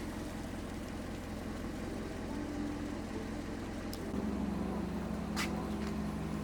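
A car engine idling with a steady low hum. About four seconds in, its note steps to a new pitch and gets slightly louder, with a sharp click just before the change and a short hiss a second later.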